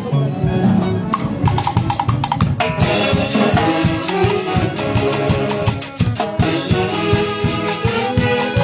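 A live dance orchestra playing, with a steady drum beat. The full band with horns comes in loudly about three seconds in.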